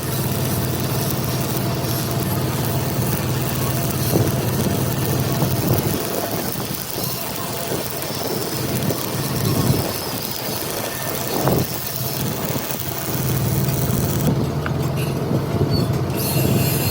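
An engine running steadily, with a few sharp metallic knocks.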